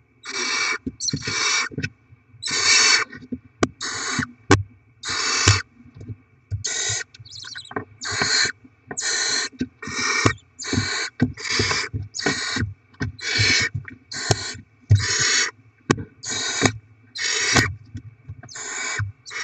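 Barn owl chicks giving hissing food-begging calls over and over, short rasping bursts about one a second, with a few sharp clicks in between.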